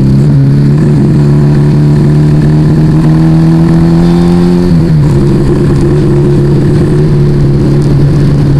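Yamaha Vega ZR moped engine with an aftermarket Arrow exhaust, under way and pulling. Its note climbs slowly, drops sharply about five seconds in as it shifts up a gear, then holds a steady cruising note.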